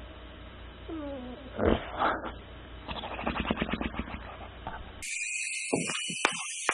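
A pet animal's sounds: a short falling whine, two loud short calls, then a quick run of rapid short sounds. About five seconds in it cuts to a different clip with a steady high tone and a few clicks.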